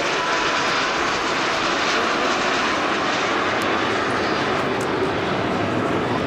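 Jet aircraft flying past, its engine noise a loud, steady rush.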